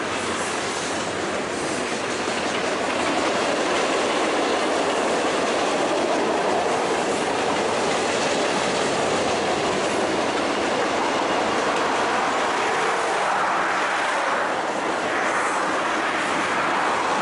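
Freight cars of a passing train rolling by: the steady noise of steel wheels running on the rails.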